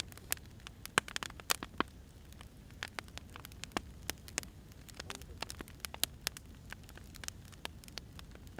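Firewood burning, with irregular sharp crackles and pops over a low steady hiss.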